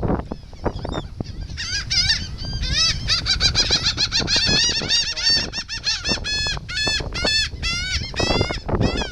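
A crowd of gulls calling, many short, harsh notes overlapping. Around the middle and later part one bird gives a fast, even series of clear notes.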